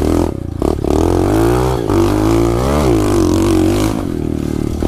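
SSR 125 pit bike's single-cylinder four-stroke engine revving while riding, its pitch climbing and falling twice around the middle as the throttle is worked, then running steadier near the end.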